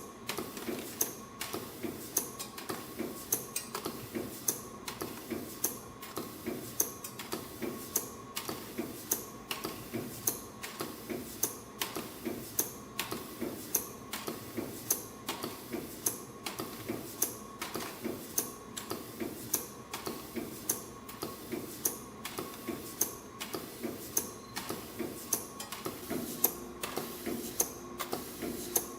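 CNC flat-wire ring coiling machine running, forming flat wire into piston rings: an even mechanical clicking, two to three strokes a second, over a steady hum and a faint whine.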